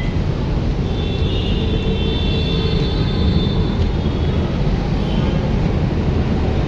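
Steady low rumble of a moving vehicle, with a thin high squeal from about a second in that fades out past the middle.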